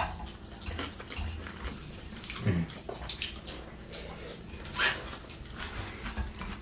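Wet chewing and mouth smacking of people eating a meal, with scattered short sharp smacks and clicks.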